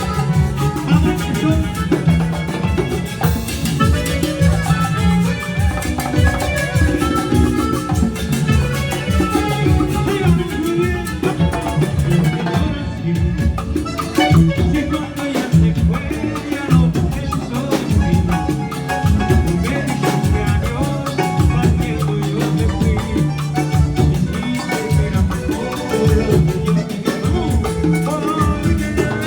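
Live band playing Latin dance music, salsa-style, with a steady beat of drums and percussion.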